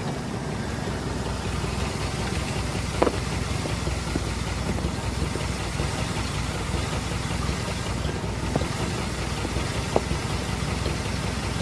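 Car engine idling steadily, with a few short clicks over it.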